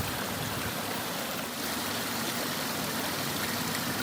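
Steady rushing of river water, an even, unbroken roar with no changes.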